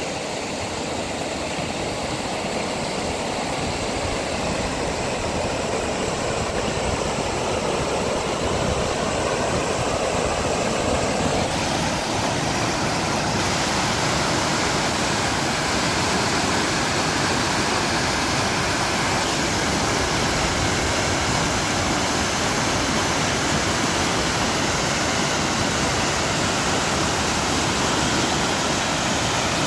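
Heavy rain pouring down steadily: a dense, even rushing hiss that swells a little over the first several seconds, then holds level.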